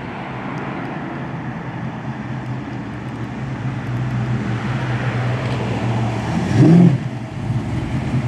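A car engine running with a steady low hum that grows gradually louder, with one quick rev blip about six and a half seconds in.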